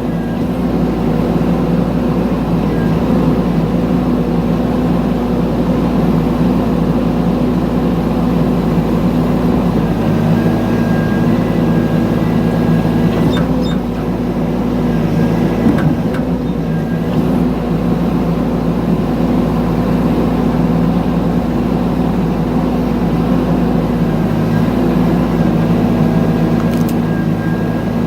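Mini excavator engine running steadily, with small changes in load about ten and fourteen seconds in.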